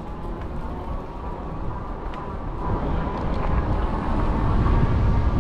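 Wind rushing over the microphone and rolling noise from an e-bike moving along a trail, growing louder from about halfway through as it picks up speed, with a faint steady whine.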